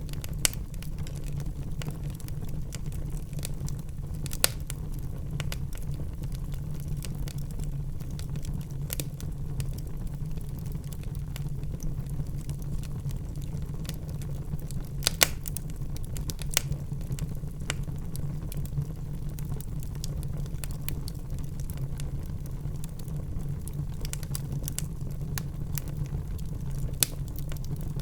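Wood fire burning in a fireplace: a steady low rumble with irregular crackling and a few sharper pops.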